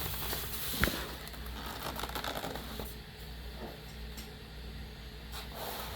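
Handling noise from boxed models and their cardboard packaging: rustling with scattered clicks, and a sharp knock just under a second in.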